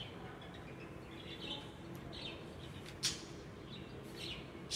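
Small birds chirping in short repeated calls, with one sharp, louder note about three seconds in, over a steady low background hum.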